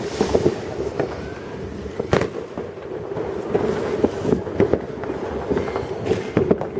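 Many fireworks going off: a dense, irregular run of bangs and cracks at varied distances, with one loud bang about two seconds in.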